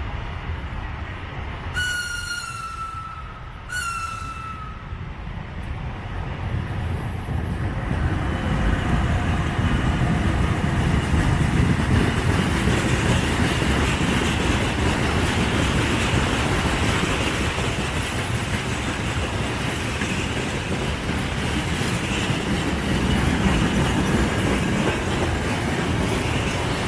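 A train's horn gives two short blasts, each slightly falling in pitch. Then a freight train comes up and rolls past, the loud rumble and clatter of its wheels and wagons building and holding steady.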